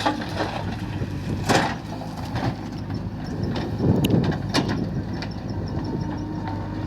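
Sonalika tractor's diesel engine running steadily, with a few sharp knocks and rattles over it.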